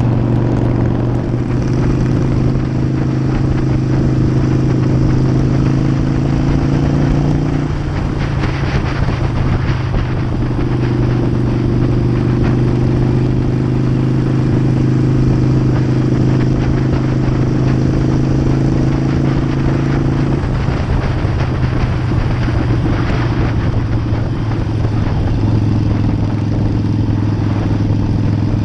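Harley-Davidson V-twin motorcycle engine running steadily while cruising, its note changing about 8 seconds in and again about 20 seconds in.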